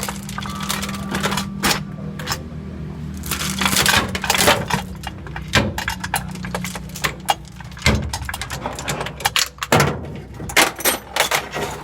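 Repeated sharp metallic knocks and clanks of work on a truck's transmission, over a steady low hum that weakens about eight seconds in.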